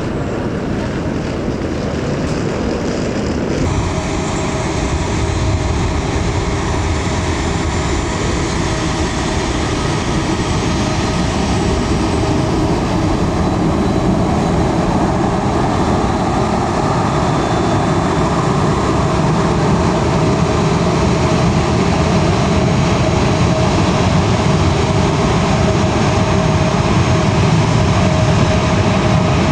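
Jet airliner engines running with a steady whine, growing gradually louder as the aircraft draws nearer.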